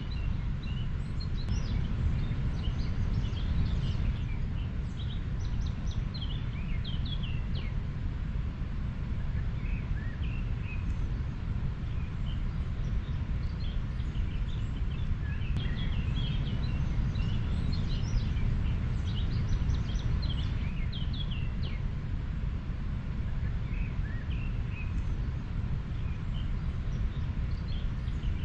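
A river flowing steadily, a constant low rush, with many small birds chirping and twittering over it throughout.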